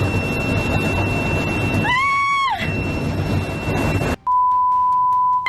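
Steady loud rushing noise with a faint steady whistle in it, and a person's high cry, rising then falling, about two seconds in. The noise then cuts off abruptly and a steady censor bleep tone sounds for just over a second at the end.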